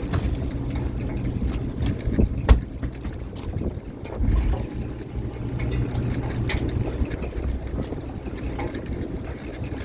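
Fishing boat's engine running steadily with a low hum. There is one sharp knock about two and a half seconds in and a dull thud a couple of seconds later.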